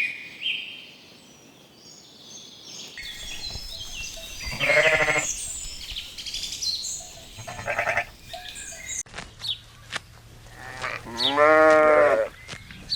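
Sheep bleating: a few separate bleats, the last and loudest one longer and wavering, about two-thirds of the way through.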